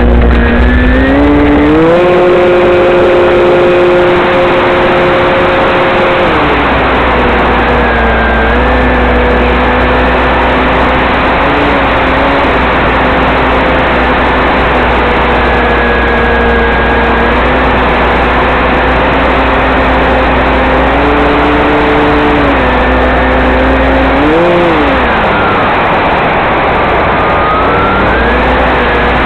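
Radio-controlled model floatplane's motor running in flight, holding a steady pitch for long stretches and stepping up and down with the throttle, with a quick rise and fall in pitch about 24 seconds in.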